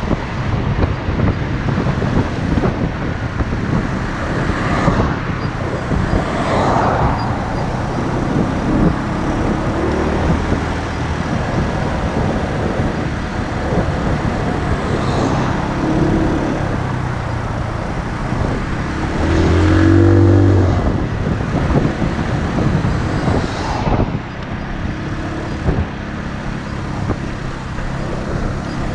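Motorcycle running on the move, its engine note under a steady rush of wind and road noise. About twenty seconds in a louder engine note swells for a second or two, then fades.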